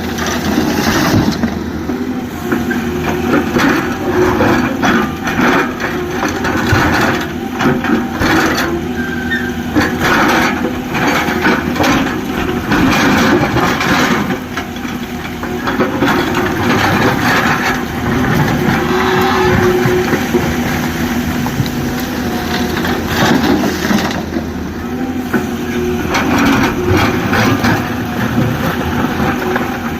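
Excavator's diesel engine running steadily under load, with repeated cracking and crunching of rock being scooped and dropped while it loads a tipper truck.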